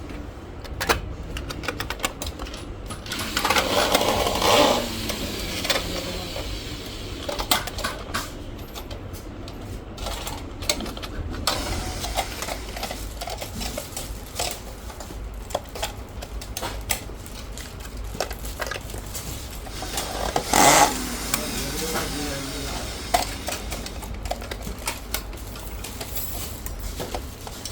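Factory work noise: scattered sharp clicks and light knocks over a steady low hum, with two brief bursts of voice about four and twenty-one seconds in.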